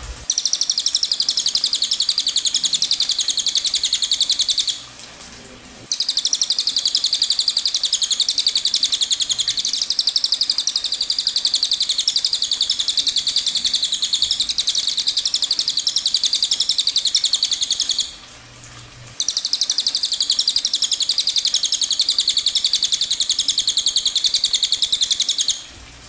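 A small bird singing long, very rapid, high trills in three unbroken bouts, each several seconds long, with brief pauses about five seconds in and near two-thirds of the way through.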